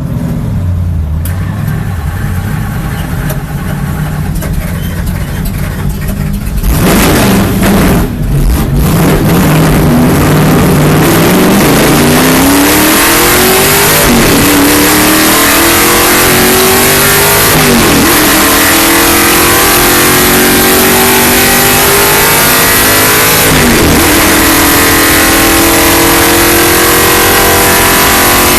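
Indy-style race car engine heard from the passenger seat: it runs quietly at first, then goes to full throttle about seven seconds in. The engine pitch climbs and drops back at three upshifts a few seconds apart, under a heavy rush of wind and road noise.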